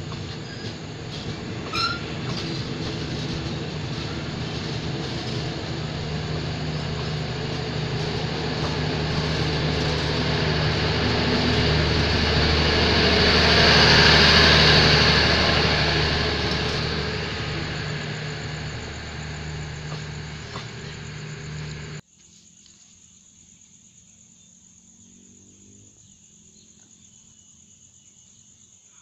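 Passenger train carriages rolling past on the station track: a steady rumble of wheels with a few sharp clacks over rail joints, building to a peak about halfway and then fading. About three-quarters of the way through the sound cuts off abruptly, leaving a much quieter background of insects chirping.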